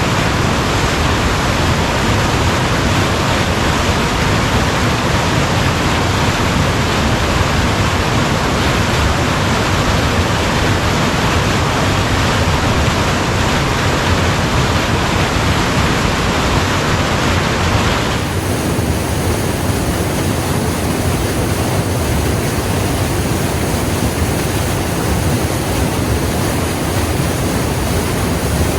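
Waterfall white water rushing in a loud, steady roar. About 18 seconds in, the sound changes abruptly and the hiss turns duller.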